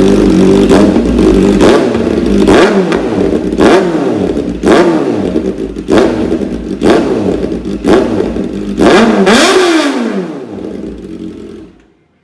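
Kawasaki ZX-4RR's inline-four engine, run through an Austin Racing exhaust with the catalytic converter deleted, revved in about ten sharp throttle blips roughly a second apart, the revs falling away after each; very loud. The sound drops away near the end.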